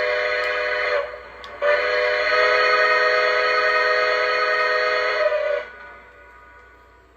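Lionel Southern Atlantic 4-4-2 model steam locomotive's onboard sound system blowing its steam whistle, a chord of several tones: a blast that breaks off about a second in, then a long blast of about four seconds that stops near the end.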